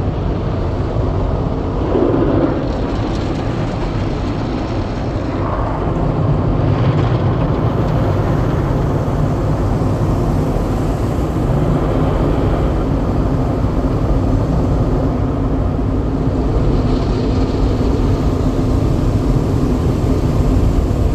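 Automatic car wash equipment running, heard from inside the car: a loud, steady rush and rumble that holds throughout.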